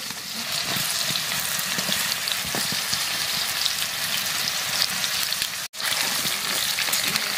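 Chicken feet and potato pieces sizzling in hot oil in an iron kadai, getting louder about half a second in as the feet go into the pan. Light clicks come from a metal spatula stirring them. The sound cuts out for an instant about two-thirds of the way through.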